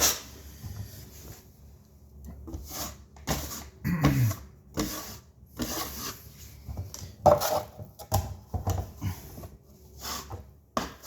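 A wide putty knife scraping and spreading setting-type joint compound over a drywall patch, in a run of short, separate strokes about every half second to a second.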